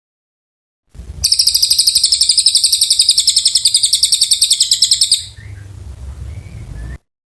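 Cililin bird singing one long, fast, even trill of high notes, about a dozen a second, lasting about four seconds. A low hum runs beneath it and stops suddenly near the end.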